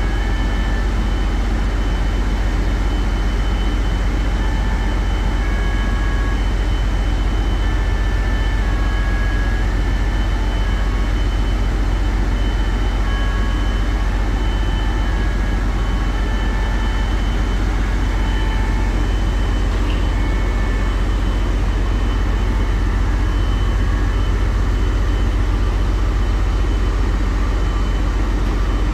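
Heavy marine diesel machinery running steadily: a constant low rumble with faint, thin whines above it.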